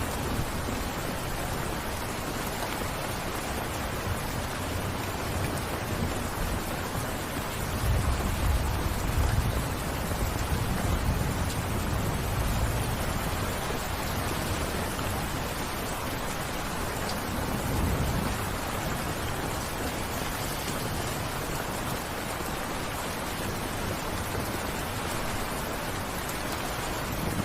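Steady rain falling, an even hiss throughout. Low rumbles swell under it from about eight to eleven seconds in and again briefly around eighteen seconds.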